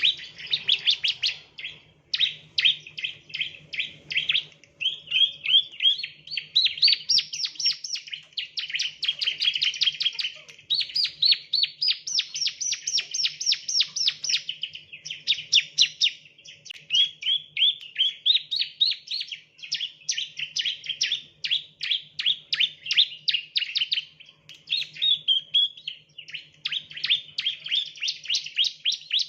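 Bar-winged prinia (ciblek) song: long runs of rapid, fast-repeated high chirps in phrases of a few seconds, some sweeping upward in pitch, with short breaks between them.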